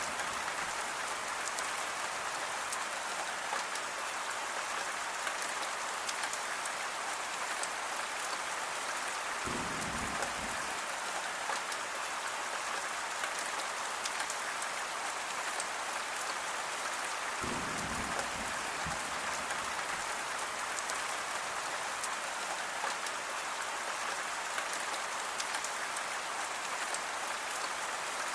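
Steady rain falling, an even hiss without breaks. Twice, about ten and eighteen seconds in, a deeper sound swells briefly under it.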